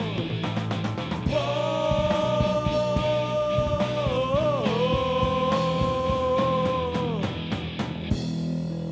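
Punk rock band playing live: drums and bass under a long held lead note that wavers and bends in pitch midway, then slides down just after seven seconds.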